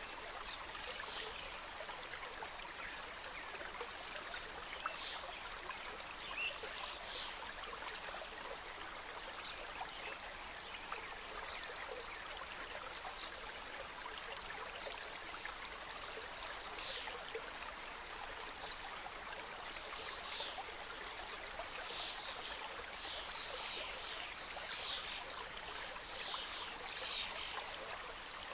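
Mountain stream cascading over rocks: a steady rush of running water, dotted with many small splashes and trickles.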